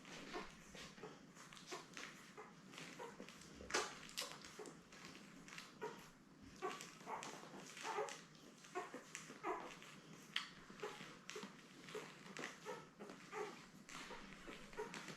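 Ten-day-old Labrador retriever puppies squeaking and whimpering in many short peeps, with small clicks and rustles in between.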